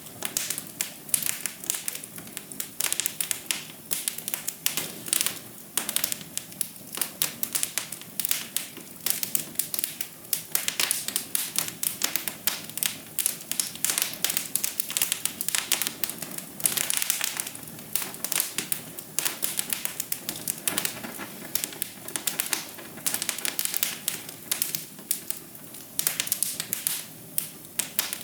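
Wood fire crackling in a fireplace: a dense, irregular run of sharp snaps and pops over a soft steady hiss.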